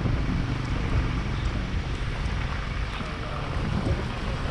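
Wind buffeting the microphone: a steady rushing noise with low rumbling.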